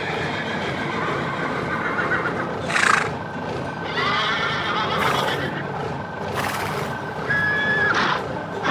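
Cartoon animal call sound effects: a series of pitched cries, about four, over a steady background.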